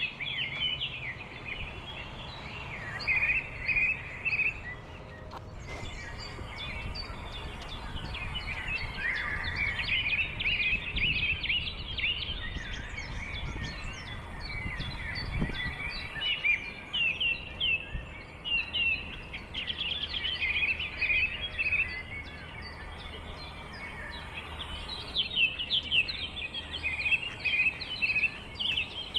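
Many small birds chirping, with short high notes in quick runs that come and go, over a steady low background rumble.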